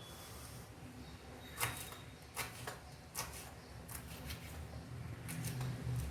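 Curry leaves being cut: a few sharp clicks and taps, about one a second, over a faint low hum.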